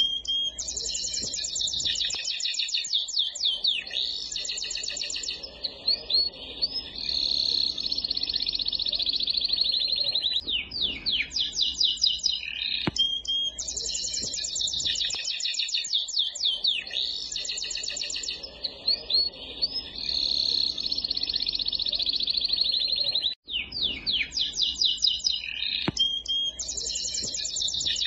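Songbirds chirping in fast, continuous trills of high, quickly repeated notes, a background track that seems to loop about every twelve seconds. The sound cuts out for an instant about two-thirds of the way through.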